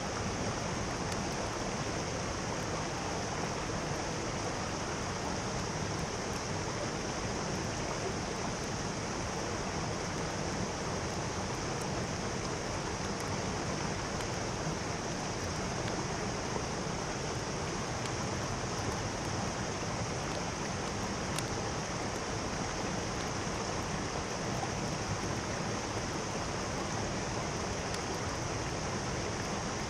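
Mountain stream rushing steadily, an even, unbroken hiss of flowing water.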